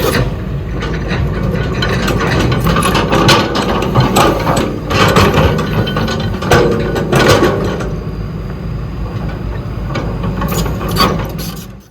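Excavator at work: the diesel engine runs steadily under a stream of irregular metallic clanks, knocks and scrapes from the machine's bucket and tracks.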